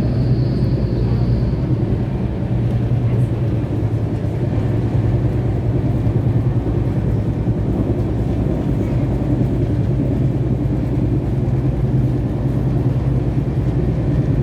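Steady running rumble of a moving passenger train, heard from inside the coach, with a constant low hum under it.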